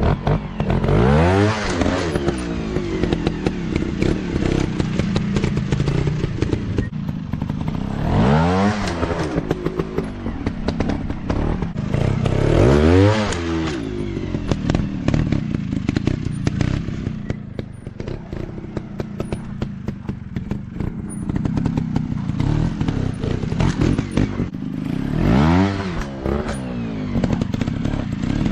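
Off-road dirt bike engine running and being revved hard four times, each time the pitch shooting up and dropping back, between stretches of lower, uneven running with clattering and thuds.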